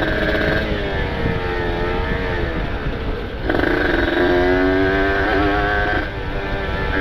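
Kawasaki Ninja RR's ported 150 cc two-stroke single running on the move through an open aftermarket exhaust, its engine note stepping up and down with throttle changes about a second in, midway and near the end.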